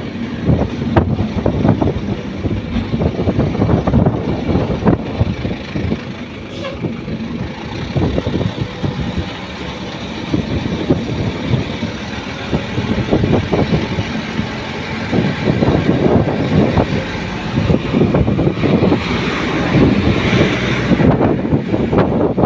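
Riding a motorbike at speed: steady engine and road noise under constant wind buffeting on the microphone, with other traffic such as a truck going by.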